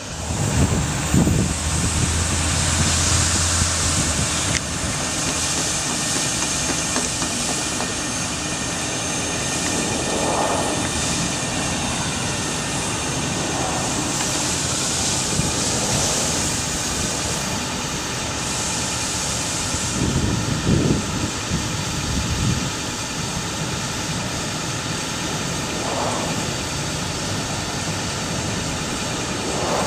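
The Ford F550 bucket truck's engine running steadily, with a few brief louder swells.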